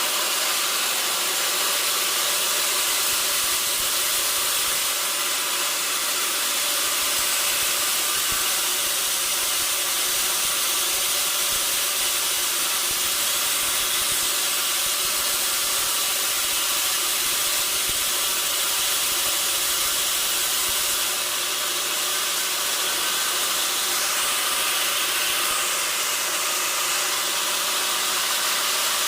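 Sawmill saw running steadily through wood: a loud, even hiss with a faint hum beneath it, unchanging throughout.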